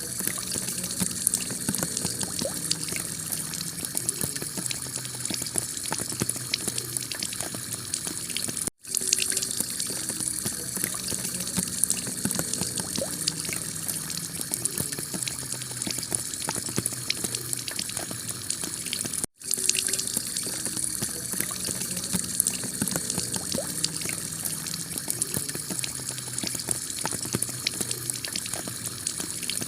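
Heavy rain falling on a clay tile roof: a steady hiss of rain with countless sharp drop ticks. The sound cuts out for an instant twice, about ten seconds apart.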